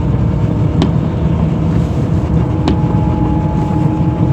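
Mercedes-Benz W124 cabin noise while driving, with low road and drivetrain rumble under a thin steady whistle that grows stronger about two-thirds of the way in. The whine comes from the rear centre of the car and is taken for a whistling driveshaft centre support bearing.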